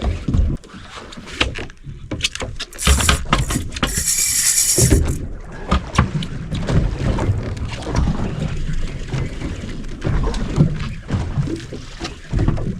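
Handling noise on a small fishing boat while a hooked fish is fought: irregular knocks and clicks over a low rumble, with a loud hissing rush from about three to five seconds in.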